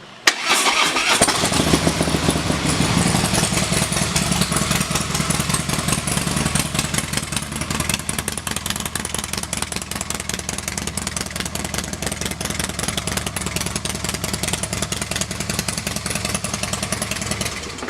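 Harley-Davidson CVO Pro Street Breakout's 110 cubic inch Screamin' Eagle V-twin, breathing through a Rinehart exhaust, is started: the starter cranks briefly and the engine catches about a second in. It idles a little louder for the first few seconds, then runs steadily until it cuts off near the end.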